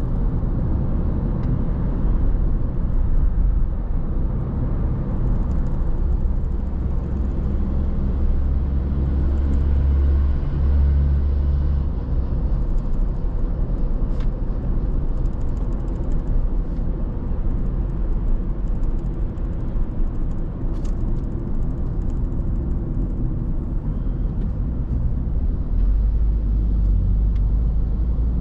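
Steady low rumble of a car driving on the road: tyre and engine noise.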